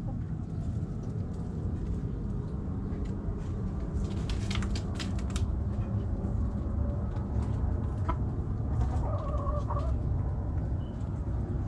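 Backyard hens clucking over a steady low rumble, with a few sharp clicks about four to five seconds in and a short pitched call about two-thirds of the way through.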